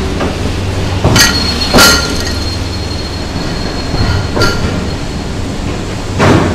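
Talgo 'Strizh' coaches rolling slowly through a gauge changer that shifts their wheels from 1435 mm to 1520 mm gauge: four sharp metallic clanks, the loudest a little under two seconds in, over a steady low rumble. A thin high squeal rings on after the first clanks.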